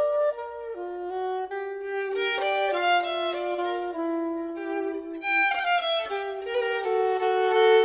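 Violin music: bowed violin playing a melody of held notes, with two or more notes sounding together.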